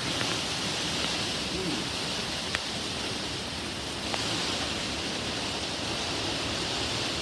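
Heavy rain falling steadily as an even hiss, with two sharp ticks of drops striking something hard a little over two and four seconds in.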